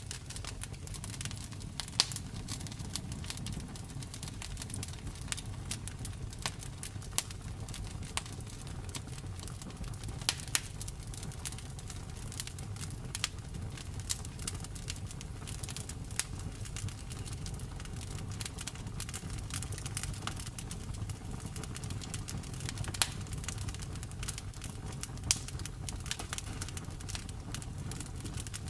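Wood fire crackling: frequent sharp pops and snaps, a handful of them much louder, over a steady low rumble of the burning logs.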